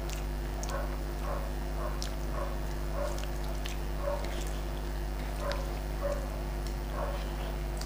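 Chewing and mouth sounds of a person eating rice and fish curry by hand: soft regular chewing about two to three times a second, with small wet clicks from the lips and fingers working the rice. A steady low electrical hum runs underneath.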